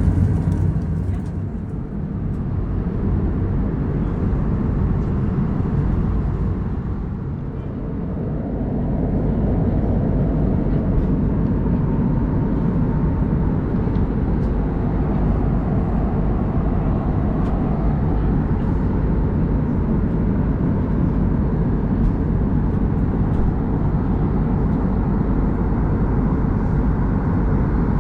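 Steady in-flight cabin noise of an Airbus A321neo: engine and airflow rumble heard from inside the cabin, dipping slightly twice early on.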